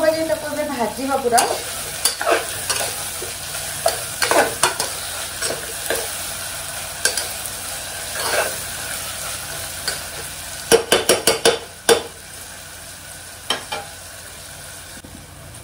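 Food frying and sizzling in a pot while a spoon stirs it, scraping against the pot. A little past two-thirds through comes a quick run of sharp taps, and the sizzle is quieter after that.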